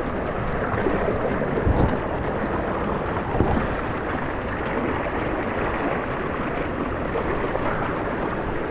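Steady rush of creek water running through a rocky gorge, with two dull thumps about two and three and a half seconds in.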